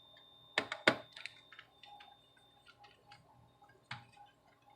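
Sharp clicks and light taps of a small screwdriver and fingers on a laptop's plastic case while a screw is being taken out, with a cluster of clicks about a second in and scattered fainter ticks after.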